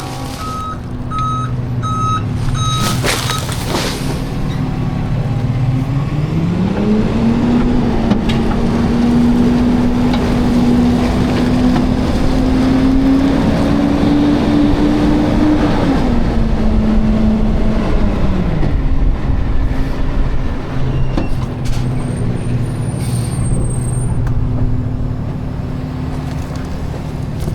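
Garbage truck's diesel engine: a few reversing beeps and a brief hiss at the start, then the engine revs up and holds at a raised speed for about ten seconds before dropping back to idle.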